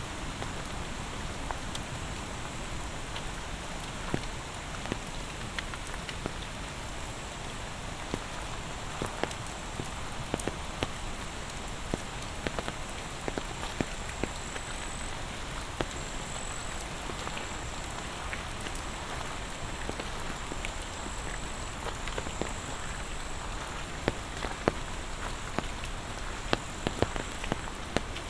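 Steady monsoon rain falling, with sharp individual raindrops striking close by, coming thicker and louder near the end. A thin, steady high-pitched tone runs underneath.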